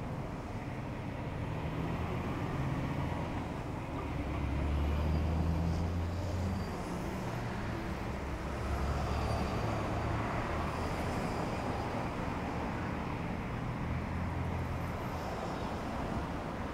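Road traffic: a steady rumble of vehicles driving past, swelling as heavier ones go by a few times.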